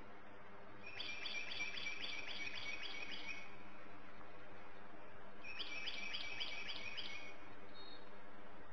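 A songbird singing two phrases, each a fast series of about three to four repeated high notes a second that sweep downward, over a steady low hum.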